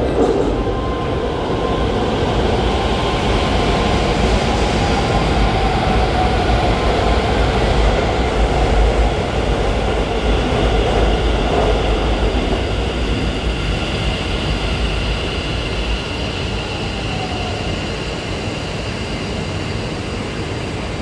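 Taoyuan Airport MRT electric train running on the line at a station: a steady rail rumble with thin steady motor tones above it, the deep rumble dropping away about three quarters of the way through and the sound easing slightly.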